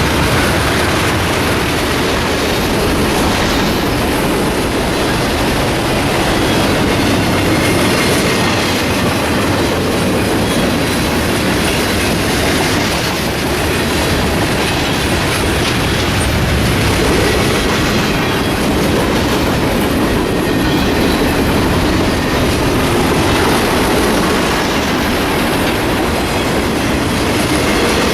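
Long freight train rolling past at steady speed, its wheels clattering over the rails.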